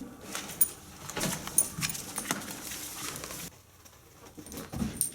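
A Saint Bernard's collar tags jingling in light metallic clicks, with rustling as the dog moves about, getting quieter after about three and a half seconds.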